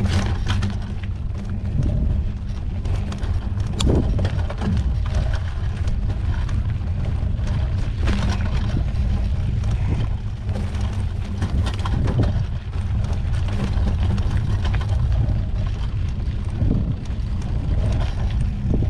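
Mountain bike riding a narrow dirt trail: a steady rumble of wind on the microphone, with frequent clicks and knocks from the bike rattling over the rough ground.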